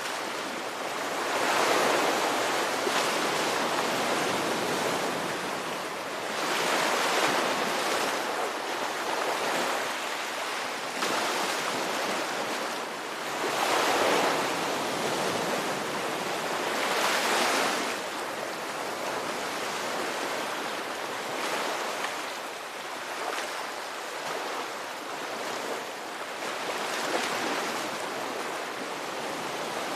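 Ocean waves breaking and washing on a shore, a continuous surf noise that swells and eases every few seconds as each wave comes in.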